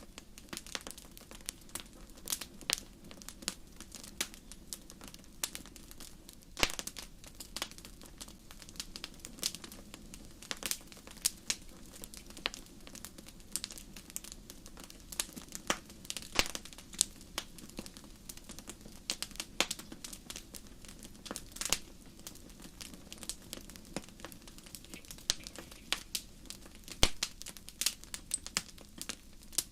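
Wood fire crackling and popping: irregular sharp snaps over a low, steady hiss of burning.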